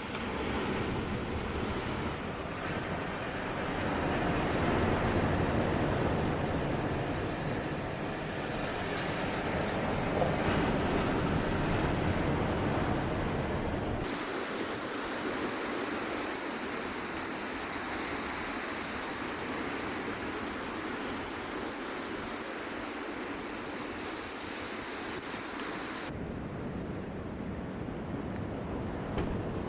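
Sea waves washing onto the shore: a steady rushing surge that swells and eases. The sound changes abruptly about halfway through and again near the end.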